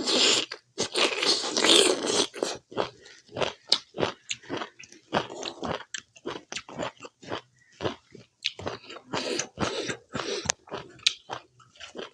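A person chewing a mouthful of pork curry and rice close to the microphone: wet smacks and clicks, a few a second, after a louder, rushing noisy stretch in the first couple of seconds.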